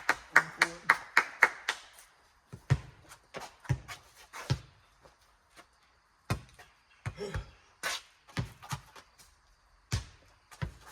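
A rubber four square ball bouncing and being slapped back and forth: a quick run of sharp knocks in the first second and a half, then scattered single thuds.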